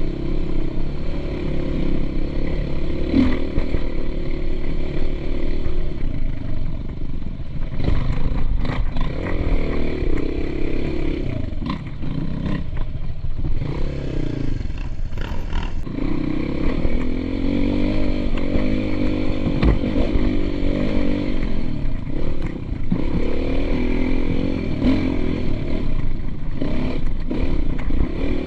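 Motocross dirt bike engine running and revving up and down repeatedly, with clatter and a few sharp knocks along the way.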